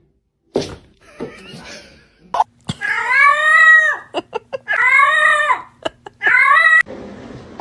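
Domestic cat giving three long meows, each rising and then falling in pitch; the third is shorter.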